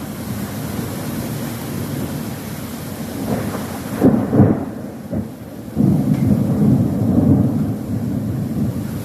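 Thunder rumbling over a steady hiss of rain. A louder peal comes about four seconds in, and a long low rumble follows through the second half.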